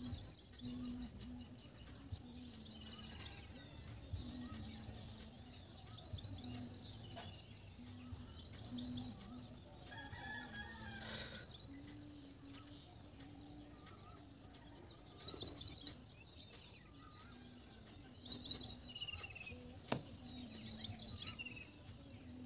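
Background ambience with a bird calling in short, rapid chirping trills repeated every couple of seconds, over a steady high-pitched whine.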